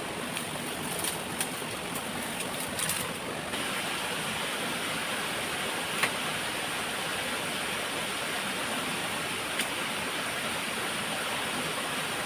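Waterfall water rushing steadily, with a few faint clicks in the first few seconds.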